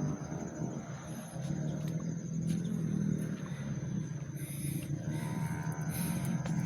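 Motor vehicle engine running steadily, a low drone that swells a little around the middle.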